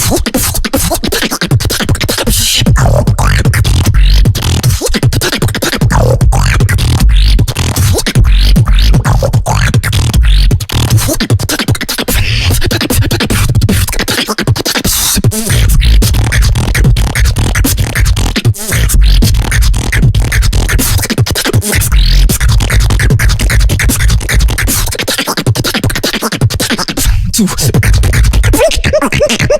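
Beatboxing: a continuous vocal percussion routine with heavy bass sounds and rapid clicks and snares, with scratch-like effects.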